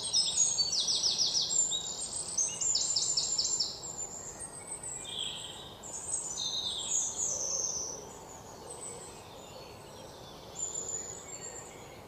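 Java sparrows chirping: high, quick trills of repeated notes in the first few seconds, then scattered short calls, over a faint steady hiss of outdoor background.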